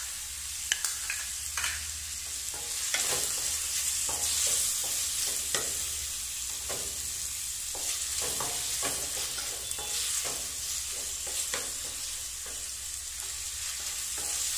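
Chopped tomatoes and onions frying in hot oil in a stainless steel kadai, sizzling steadily, while a spatula stirring them scrapes and clicks against the pan.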